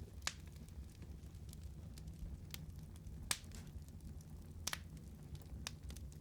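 Wood fire burning with a steady low rumble and scattered sharp crackles and pops, the loudest about a third of a second in, at about three seconds and near five seconds.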